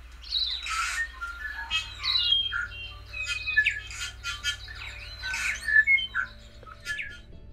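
Birds calling in a busy run of varied squawks, chirps and short whistles, over soft music with low held notes that change twice.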